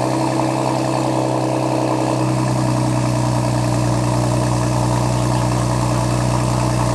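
Ford Explorer's turbocharged engine idling steadily just after start-up, heard through a Thermal 2.5-inch turbo-back exhaust with test pipes in place of the catalytic converters.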